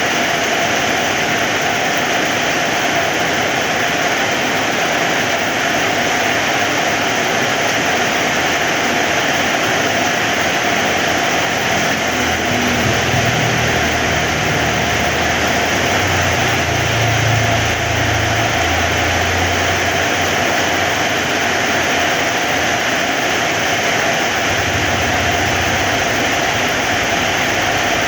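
Heavy rain falling steadily, a dense even hiss. A low rumble swells in about halfway through and again near the end.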